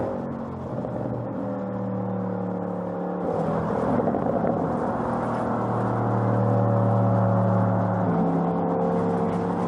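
The 2020 Audi RS6 Avant's 4.0-litre twin-turbo V8 running at steady revs on the move, heard through its exhaust. The engine note steps to a new pitch about three seconds in and again near the end.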